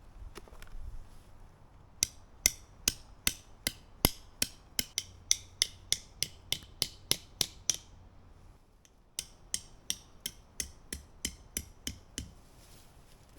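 Two runs of sharp, evenly spaced taps or strikes with a short metallic ring, about three a second: roughly fifteen, a short pause, then about eight more.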